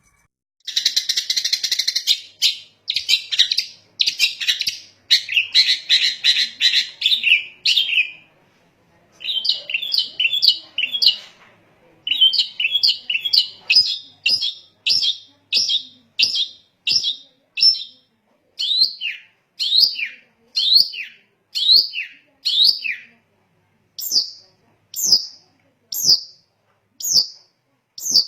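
Long-tailed shrike (cendet) singing. It starts with a dense, fast chattering run. After short breaks it turns to a series of separate sharp notes about one a second, many sweeping down in pitch.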